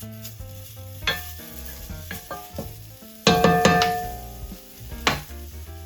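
Vegan chicken strips and dried spices sizzling in a hot pan while a spatula stirs and scrapes, with sharper scrapes about a second in, a little past halfway and near the end. Soft background music runs underneath.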